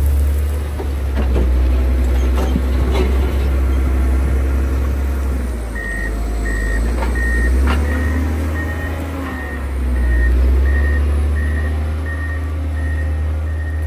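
John Deere 670 GP motor grader's diesel engine running steadily under load, with some knocks and clatter in the first few seconds. About six seconds in, its reversing alarm starts beeping about twice a second as the grader backs up.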